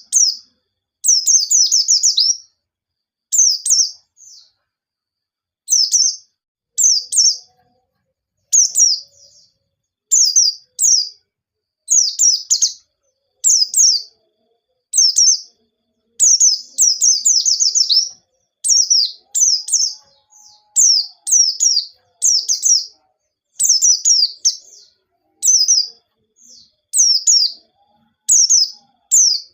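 White-eye (pleci) singing: short bursts of rapid, high, falling chirps, a new phrase about every second, some running together into longer runs of notes.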